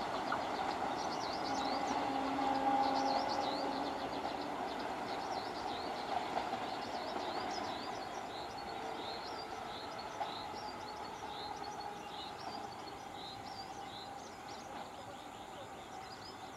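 ICF-built electric multiple unit (EMU) local train running on the track: a steady rumble that grows gradually fainter. Small birds chirp repeatedly over it, with short high falling notes.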